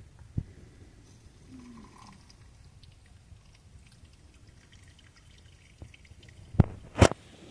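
A few sharp knocks: one about half a second in and two louder ones near the end, the last the loudest, over faint low background noise with small scattered ticks.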